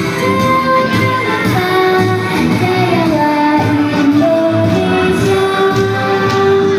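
Female singing with musical accompaniment: a sustained melody with held, gliding notes over a steady beat.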